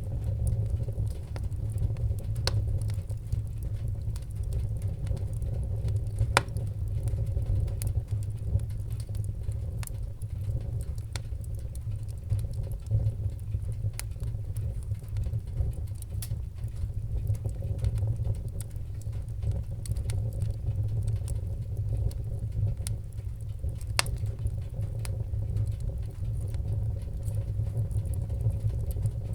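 Wood fire in a fireplace crackling steadily, with many small sharp crackles and a few louder pops, over a low steady rumble of the flames.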